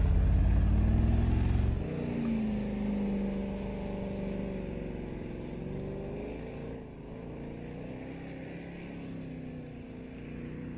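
2011 Porsche Cayenne's engine under power as it drives through soft sand: a loud, deep rumble as it passes close for about the first two seconds, then a quieter engine note rising and falling with the throttle.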